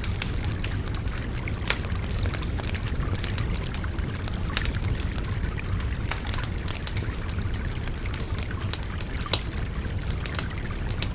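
Wood bonfire crackling, with irregular sharp pops and snaps, over a steady babbling river.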